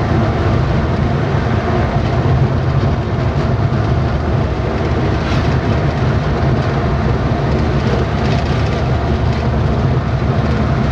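Steady engine drone and road noise inside a moving vehicle, with a rattling clatter from the road surface.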